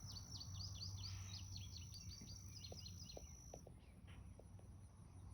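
A bird calls in a rapid series of short high notes, each falling in pitch, for about the first three seconds. Under it runs a steady high-pitched insect drone that stops about three and a half seconds in.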